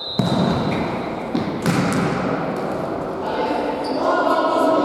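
Futsal ball being kicked and bouncing on an indoor court floor, a few sharp thuds in the first two seconds, with players' voices and shouts around it.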